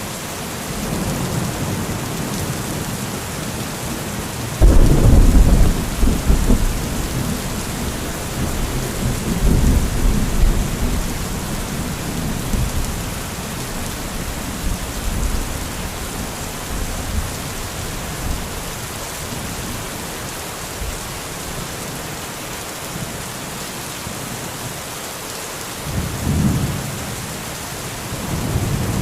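Thunderstorm: steady rain hissing, with a loud clap of thunder about five seconds in that rolls on as rumbling for several seconds, then a softer rumble of thunder near the end.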